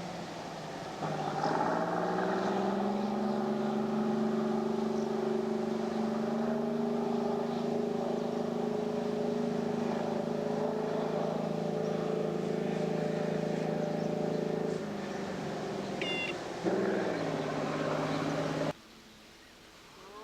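An engine rises in pitch about a second in and then runs at a steady speed. It drops back after about fifteen seconds, picks up again briefly, and cuts off abruptly near the end.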